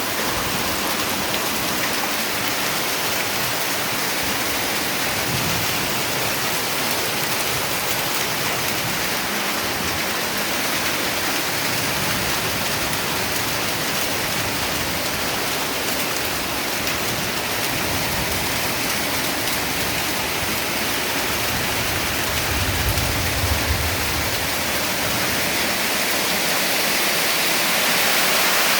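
Heavy rain falling steadily in a storm. A brief low rumble comes about three quarters of the way through.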